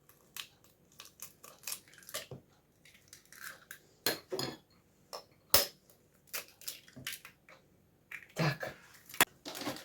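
Two eggs being cracked on a bowl and dropped in: scattered sharp taps and clinks of shell and kitchenware, the loudest about four and five and a half seconds in.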